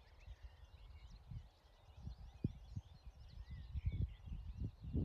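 Several small songbirds singing and chirping together, over a low, uneven rumble that grows louder near the end.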